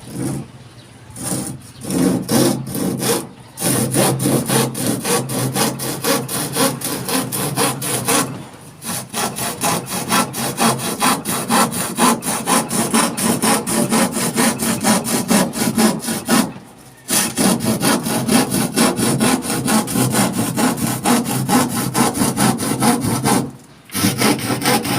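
Hand saw cutting through a wooden board in quick back-and-forth strokes, several a second, with three short pauses along the way, until the piece is cut off.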